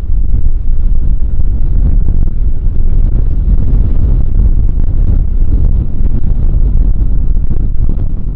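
Strong wind buffeting the microphone: a loud, gusty low rumble that surges and eases without letting up.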